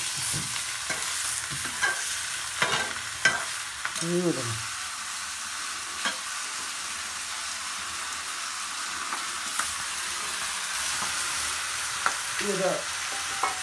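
Curry frying and sizzling in hot oil in a pan, with a ladle stirring and scraping in scattered sharp clicks. A short sound falling in pitch comes about four seconds in and again near the end.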